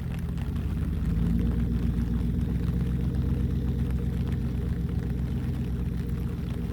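An engine's low, steady hum that grows louder about a second in.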